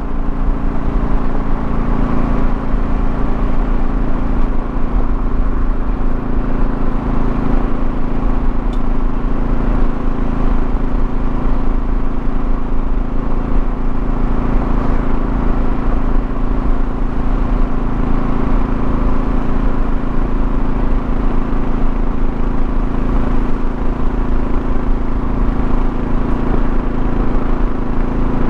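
2024 Kawasaki KLR650's single-cylinder engine running at a steady cruising speed, under wind and road noise from the ride.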